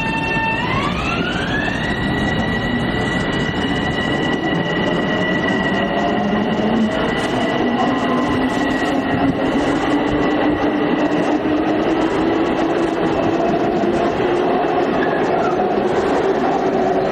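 Long Island Rail Road electric multiple-unit train pulling away under power. Its traction motor whine steps up in pitch in the first couple of seconds and then holds, while a lower whine climbs slowly through the rest, over steady wheel and rail rumble.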